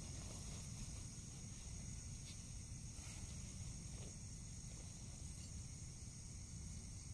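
Steady, high-pitched insect chorus from forest crickets or similar insects, over a low rumble, with a few faint light clicks.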